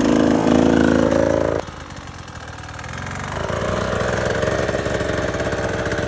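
Dirt bike engine running at low, steady revs. It drops sharply quieter about a second and a half in, then builds back up from about three seconds as the revs climb and hold.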